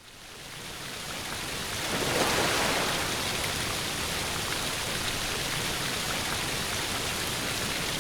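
A steady, even rushing noise like rainfall, fading in over the first two seconds and then holding steady.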